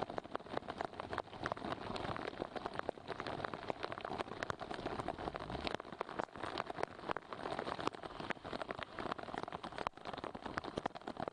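Heavy rain falling on flooded streets: a steady, dense patter of many drops.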